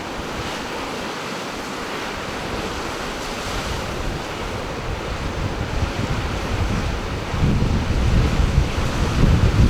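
Ocean surf washing steadily, with wind buffeting the microphone; the low wind rumble grows stronger in gusts over the last two seconds or so.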